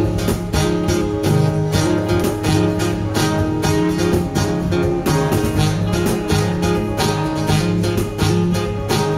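Live acoustic guitar strumming chords in a steady rhythm, with sharp percussive hits keeping the beat.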